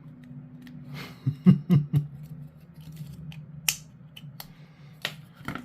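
Sharp clicks and snips of plastic model-kit parts being cut from the sprue with hobby clippers and handled on a desk. There is a quick cluster of three or four clicks about a second and a half in, then single clicks later, over a steady low hum.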